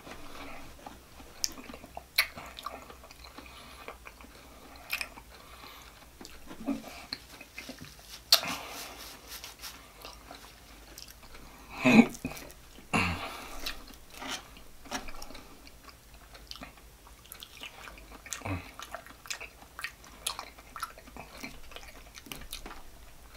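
Close-miked eating sounds: a man chewing and biting grilled sausage and meat, with scattered wet smacks and clicks. A plastic fork pokes into the meat, and the loudest smack comes about twelve seconds in.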